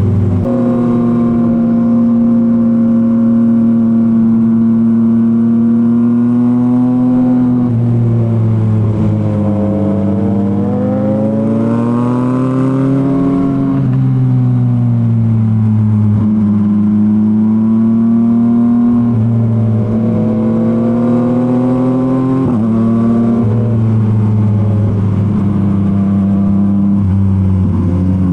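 Yamaha MT-09's inline three-cylinder engine through a Revoc SP full exhaust system, running at cruising revs under way. The note holds steady for stretches, then rises and falls several times with throttle changes, with a lower drone coming and going.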